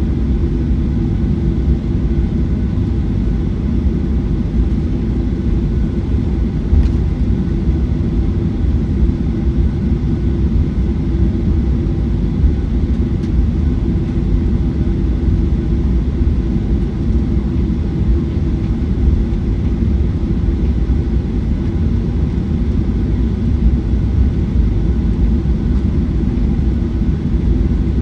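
Steady rumble and engine hum inside the cabin of a Boeing 737-900ER, from its CFM56-7B turbofans, with no change in pitch or level.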